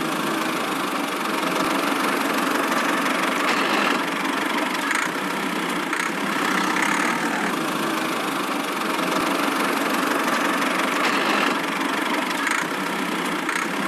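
A motor running steadily at an even pitch and level.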